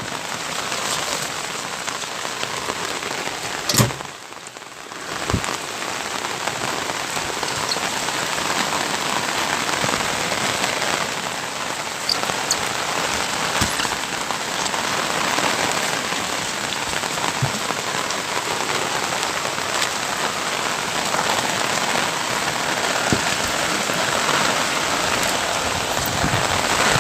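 Steady heavy monsoon rain pattering on a car's windshield, with a sharp knock about four seconds in and a brief lull just after it.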